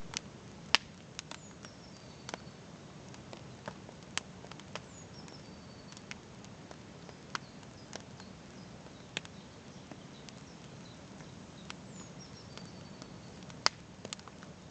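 Wood campfire crackling: irregular sharp pops and snaps over a steady low hiss, the loudest pops coming about half a second in and near the end.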